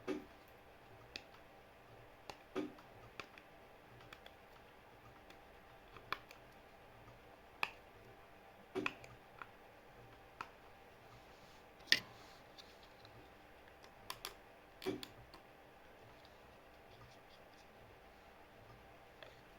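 Sporadic light clicks and knocks of small objects being handled, one every second or so with quiet between, the sharpest a little past the middle.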